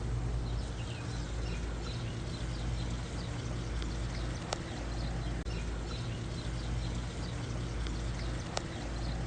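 Backyard pond waterfall and fountain splashing: a steady rush of falling water, with a couple of faint sharp ticks.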